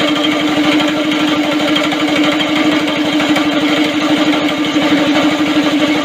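Small go-kart engine running steadily at a constant speed, with fast, even firing pulses and a strong steady hum.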